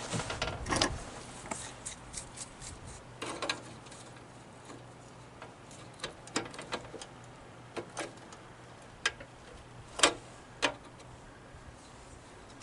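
Scattered clicks and light knocks of hand tools and small metal parts being handled while working on a mower engine, the loudest knock about ten seconds in, over a faint steady low hum.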